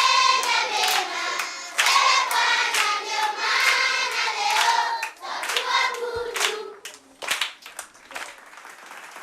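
A group of voices singing together in chorus, with sharp hand claps among the singing. The singing dies away about seven seconds in, leaving a few scattered claps.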